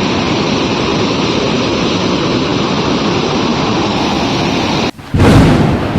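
Swollen floodwater river rushing, a loud steady roar of water. About five seconds in it breaks off briefly and comes back louder and deeper.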